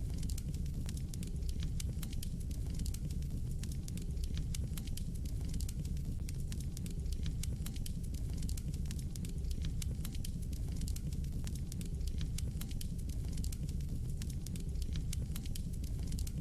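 Fire burning in a fireplace, crackling with many small, irregular sharp pops over a steady low rumble of the flames.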